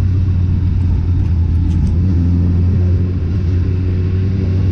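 Motorcycle engine running at a steady speed, a constant low hum.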